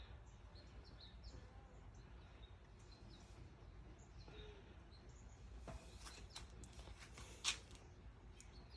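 Near silence, with faint bird chirps in the background and a few light handling clicks, one sharper click near the end.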